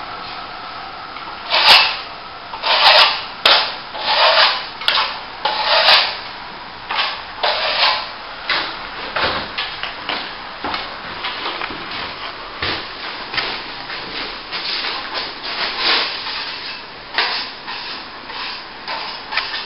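Steel plastering trowel scraping over a top coat of plaster on plasterboard: a run of irregular sweeping strokes, the first few heavier, then quicker and lighter as the surface is polished off.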